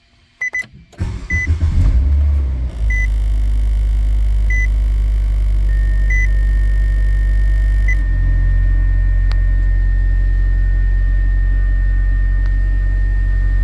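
Nissan Sentra 1.8L four-cylinder engine cranking and catching about a second in, then idling steadily. A car's warning chime beeps about every second and a half until roughly eight seconds in, when the idle settles to a slightly different note.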